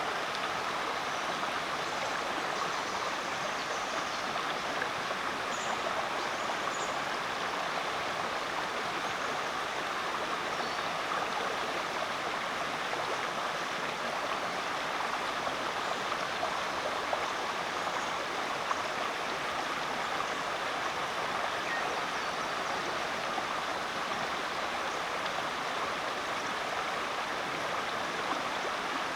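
Rainforest creek flowing over rocks: a steady rushing and babbling of water.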